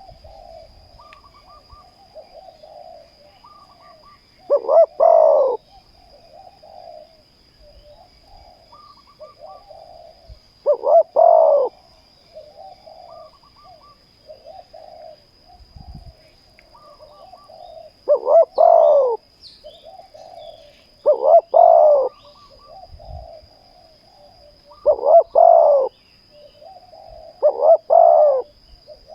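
Spotted doves cooing: one close bird gives six loud coo phrases a few seconds apart, with fainter cooing between them.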